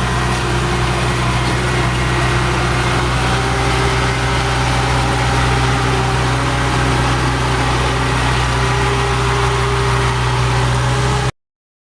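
Kubota farm machine's engine running steadily with a strong low hum, its pitch unchanging. The sound cuts off abruptly near the end.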